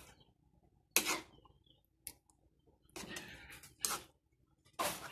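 Metal spoon scraping and clinking against a metal pan while stirring thick spaghetti sauce, in several short strokes about a second apart.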